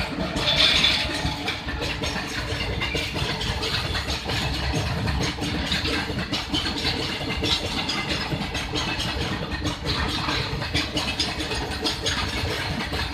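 WAG-12 electric freight locomotive running with a steady mechanical rumble and hiss, the hiss strongest about a second in.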